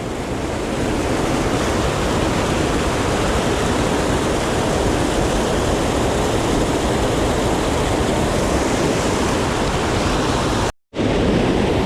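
Rushing creek water, a steady loud wash of noise, broken by a brief total dropout near the end.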